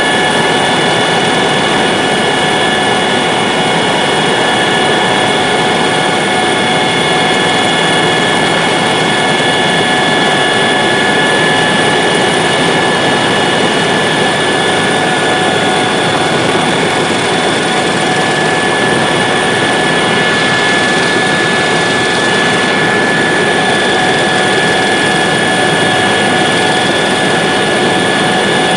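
Helicopter in flight, heard from inside the cabin: a loud, steady mix of engine and rotor noise with several constant high-pitched whines over it.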